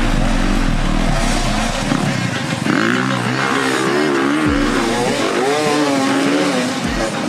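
Motorcycle engine running, its pitch rising and falling repeatedly.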